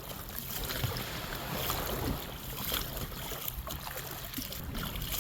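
Motorised kayak moving through the water: water washing against the hull, with wind on the microphone over a low, steady hum from its motor.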